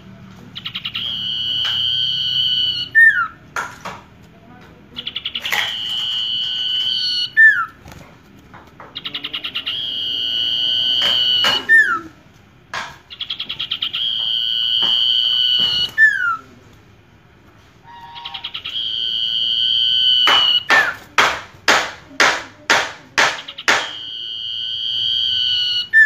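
A caged common iora (sirtu) singing: a long, high, drawn-out note repeated about every four seconds, each ending in a short falling slur. After a brief pause there is a quick run of about eight sharp notes, then the long note again.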